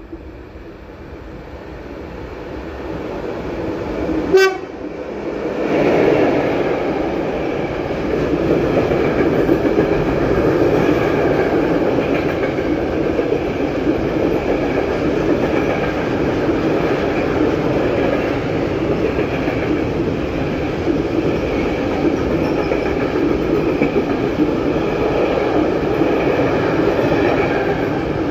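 A train approaching and growing louder, giving one short, sharp horn toot about four seconds in, then passing steadily at close range for the rest of the time.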